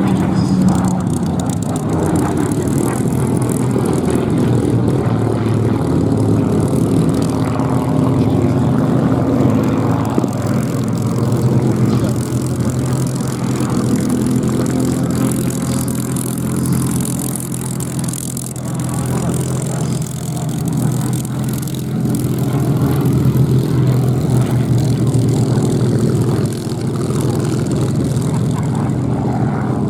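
Supermarine Spitfire's piston engine running in flight, a loud continuous drone whose pitch slowly rises and falls as the aircraft passes and manoeuvres.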